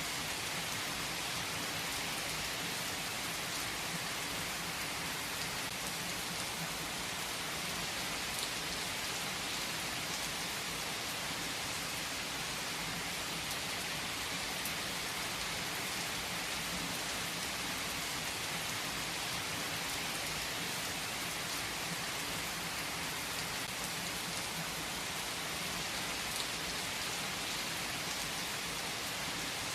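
Steady rain falling in an even hiss, with faint separate drop ticks now and then.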